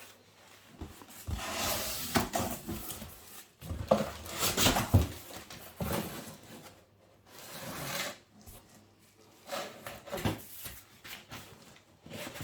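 Irregular rustling and rubbing with a few light knocks, like objects being handled and moved about.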